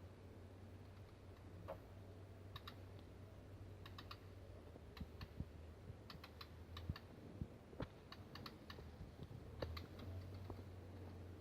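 Faint, irregular light clicks, some in quick pairs, over a low steady hum.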